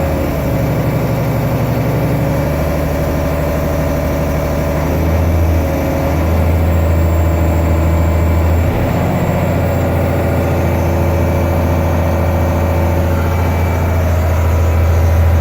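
1994 Mack Econodyne diesel engine of a rolloff garbage truck idling steadily while warming up after a cold start, with a slight change in its note about nine seconds in.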